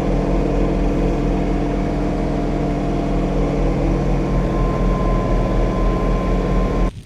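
Steady machine hum with an even pitched drone and a strong low rumble, a thin higher tone joining partway through; it cuts off abruptly near the end.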